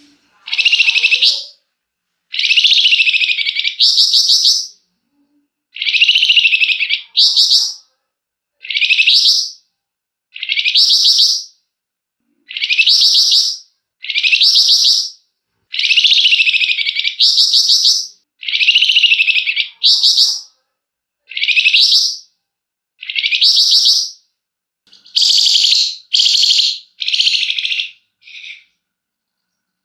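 A flamboyan songbird calling in a long series of loud, harsh, rattling bursts of about a second each, one every second or two. These are the excited, agitated ngebren and nyecret calls of a bird in full song.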